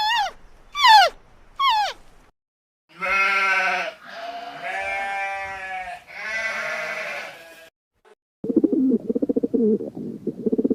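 Three long, wavering bleats from a sheep or goat. Before them come three short calls that fall in pitch, and after them a low, fast-pulsing rattle that starts about two-thirds of the way in.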